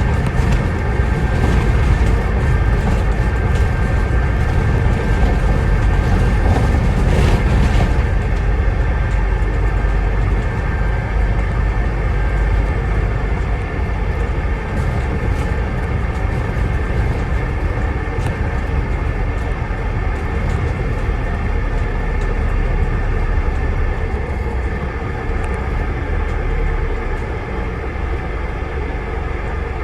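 Scania Enviro 400 double-decker bus under way, heard from inside on the upper deck: engine and road rumble with a steady high turbo whistle over it. The hiss eases about eight seconds in.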